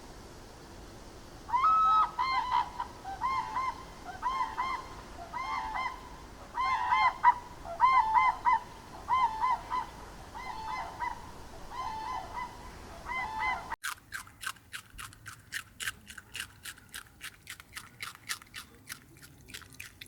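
A bird, goose-like, honking over and over, about one and a half calls a second. About two-thirds of the way through it cuts abruptly to a fast run of short clicking calls, about four a second.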